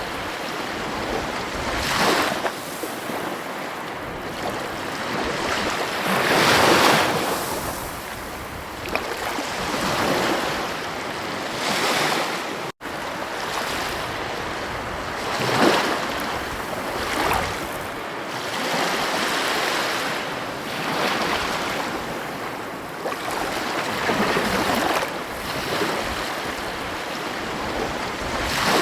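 Ocean surf breaking on a beach: a steady wash of waves that swells every few seconds. About halfway through the sound drops out for an instant.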